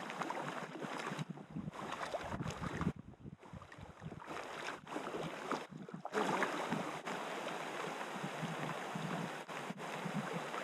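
River water rushing and sloshing around a packraft on the move, a steady watery noise that cuts out briefly several times in the first half.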